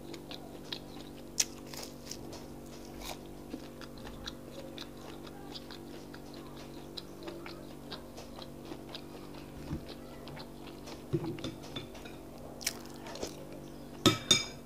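Close-miked chewing of akara (fried bean cakes), with many small irregular mouth clicks. Near the end a metal spoon strikes against a glass bowl of custard several times in quick succession, the loudest sounds here.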